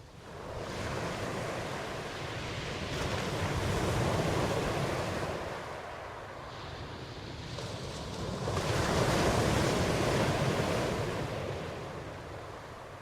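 Ocean waves surging and washing ashore, swelling twice, about five seconds apart, and easing off between.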